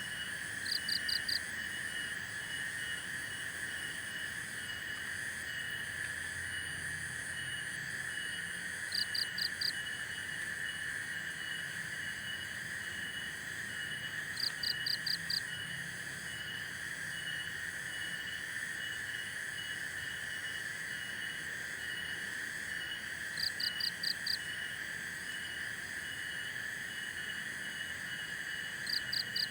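Chorus of insects and frogs: a steady high drone with a fast, regular chirping over it. Five times, a short run of four or five sharp, high notes cuts in above the chorus.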